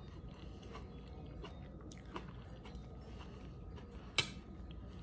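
A person chewing a mouthful of soft, tender stuffed pepper, faint and close, with small wet mouth clicks; one sharper click about four seconds in.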